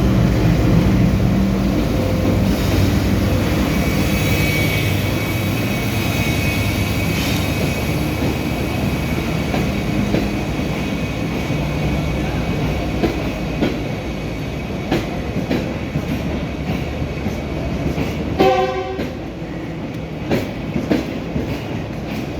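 Pak Business Express passenger train running along the track, a steady rumble with the wheels clicking over rail joints, plainer in the second half. A short horn blast sounds about three-quarters of the way through.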